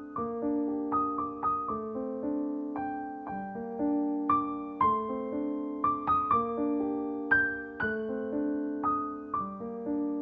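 Soft background piano music: a slow, gentle melody of struck notes over sustained chords.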